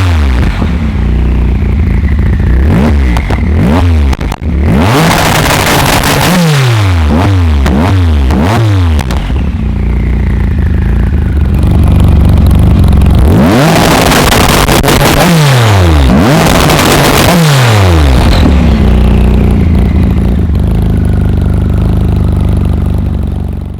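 Tuned car engine and exhaust being revved hard in a series of quick throttle blips, the pitch shooting up and dropping back after each one, with a steadier run near the end.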